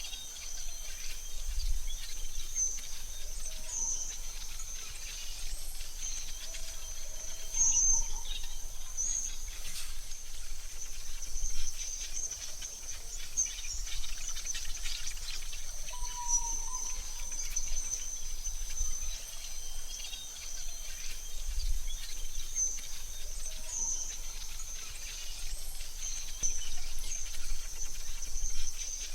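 Forest ambience: a steady high-pitched insect drone with scattered short bird chirps over a soft hiss and low rumble.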